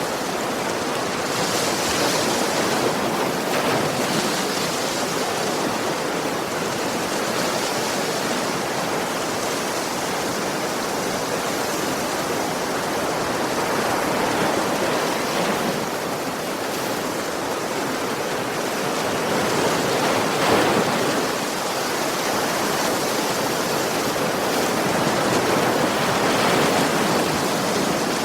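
Sea waves washing in as surf: a steady rush of water that swells and eases every few seconds, loudest about twenty seconds in.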